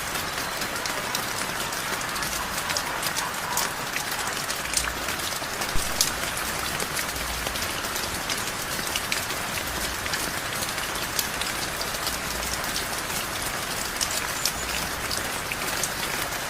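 Heavy rain falling steadily, with a dense patter of individual drops striking nearby surfaces and a few louder drop hits about six seconds in.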